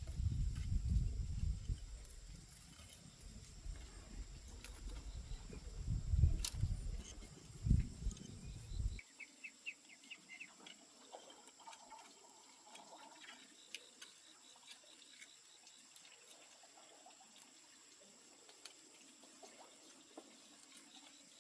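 Rural outdoor ambience: a steady high insect drone with a few bird chirps and scattered light clicks. A low rumble with some knocks fills the first nine seconds, then stops abruptly.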